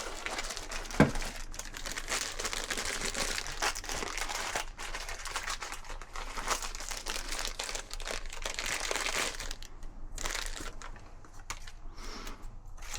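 Crinkling, rustling handling noise, with one sharp knock about a second in and scattered clicks, easing off near the end.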